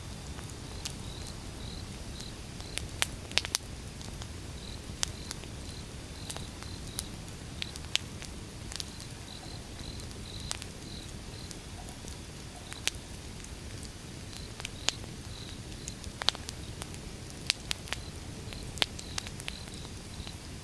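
Firewood burning: a steady low rush of flames with irregular sharp crackles and pops, several of them loud. Faint short high chirps repeat in the background.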